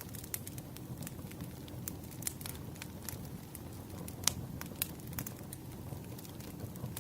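Campfire burning: a low steady rumble under irregular sharp crackles and pops, one louder pop about four seconds in.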